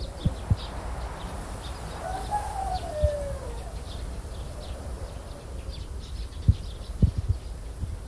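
Birds calling: faint short high chirps repeating throughout, and one longer call that rises and then falls about two seconds in. Several sharp low thumps break in, mostly near the end.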